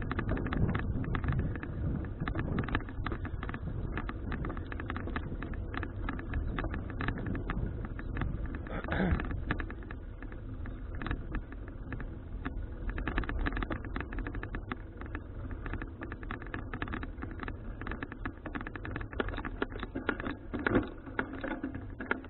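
Wind buffeting an action camera's microphone on a moving bicycle, with many small clicks and knocks from the ride over the road.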